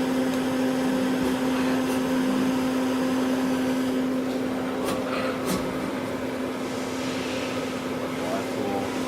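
Citizen M20 CNC Swiss-type lathe running with a steady machine hum, between spindle tests as the turret is brought up, with two sharp clicks about five seconds in.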